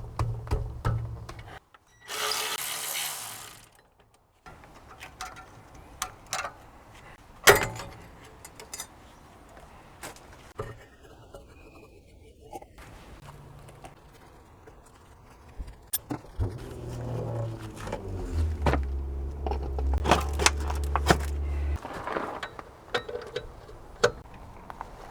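Hand tools at work on car brake parts: metallic clicks, knocks and scrapes, with a short hiss about two seconds in and a low hum in the second half.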